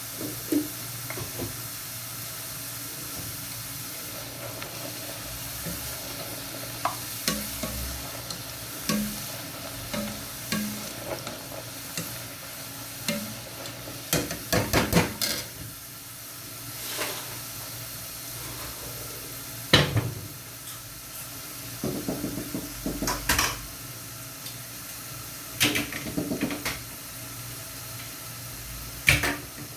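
Food frying in a pan with a steady sizzle, while a utensil stirs and scrapes it, making scattered clicks and knocks against the pan; several sharper knocks come in the second half.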